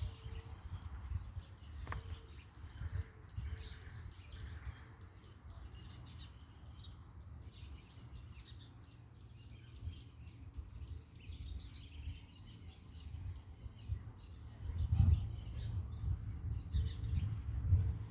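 Many small birds chirping in quick, short high notes, over a low rumble that grows louder about three-quarters of the way through.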